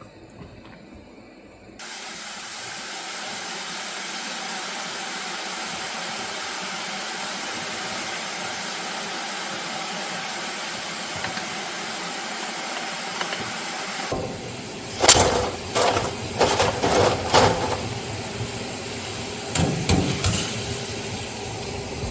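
A steady hiss starts about two seconds in and stops suddenly about fourteen seconds in. A run of irregular knocks and clatters follows.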